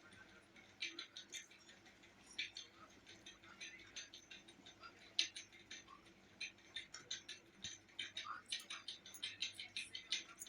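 Eating sounds: many small, irregular wet clicks and smacks of chewing and of a meal being handled close to the microphone.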